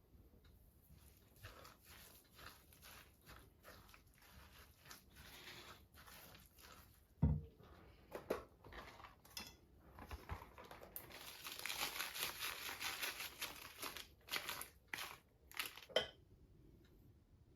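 Rustling and crinkling of something being handled, in many short strokes that grow denser in the second half, with one thump a little before halfway.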